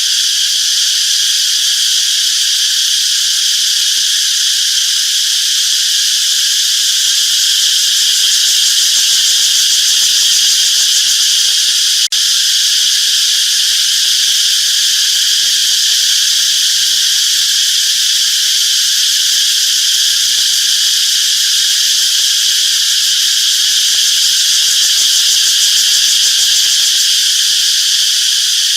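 Steady, loud chorus of singing insects, a continuous high-pitched buzz with no break except a brief dropout about twelve seconds in.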